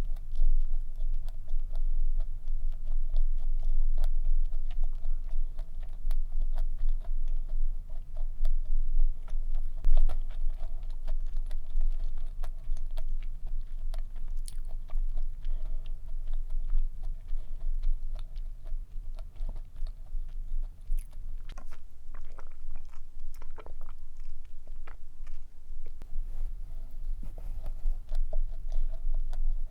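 Close-miked chewing and biting of stollen, with small irregular crunches and mouth clicks over a steady low hum.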